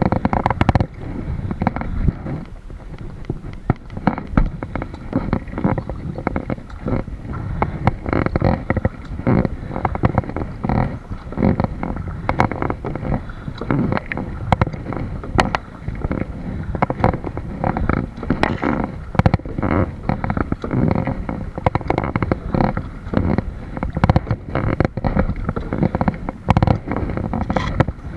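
Kayak paddling heard from a camera on the boat: a continual run of irregular knocks, splashes and rumble from water and wind hitting the boat and microphone, muffled in the higher tones.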